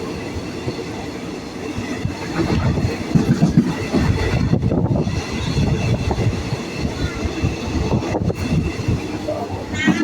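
Passenger train running along the track, heard from inside the carriage: a steady rumble of wheels on rail, with faint high tones above it.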